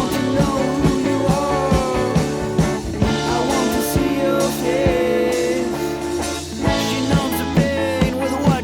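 Indie rock band recording: a drum kit keeps a steady beat under electric guitar and bass.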